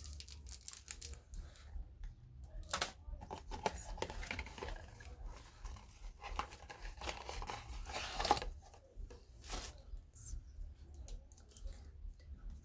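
Packaging being handled and opened: irregular crinkling, rustling and tearing, busiest in the middle.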